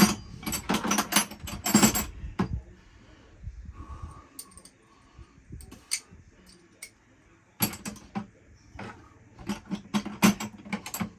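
Metal hand tools (wrenches and sockets) clinking and rattling against each other in bursts, with a quieter gap in the middle, while a 5/16 size is sought for the next fastener.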